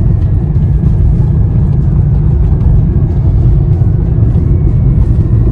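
Steady, loud low rumble of a moving vehicle: road and engine noise.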